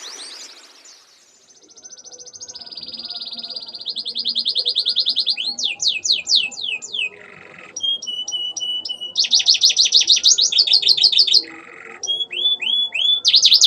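Domestic canary singing, with imitated ciblek and ciwah calls worked into its song. The song runs as fast trills and strings of quick, repeated, down-slurred high notes, changing phrase every second or two.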